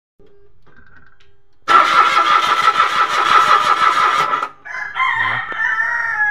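A Mitsubishi Mirage's engine is cranked on the starter for about three seconds without catching, a no-start the mechanic traces to fuel not reaching the engine. Just after it stops, a rooster crows once.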